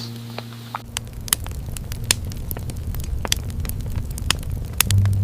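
Irregular crackling clicks over a low rumbling noise; music comes back in near the end.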